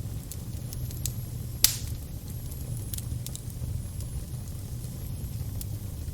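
Fire crackling over a steady low rumble, with scattered sharp snaps and one loud pop about a second and a half in.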